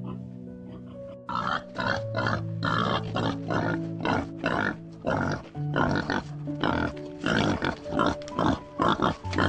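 Boars grunting in short, loud calls, about two a second, starting a second or so in, over background music.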